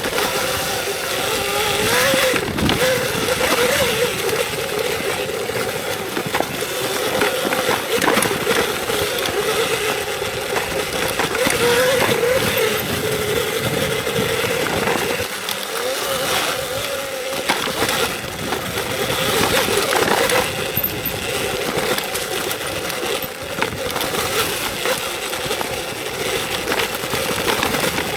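Electric dirt bike riding a trail: the motor's whine wavers up and down in pitch as the speed changes, over a steady rushing noise with scattered knocks and rattles.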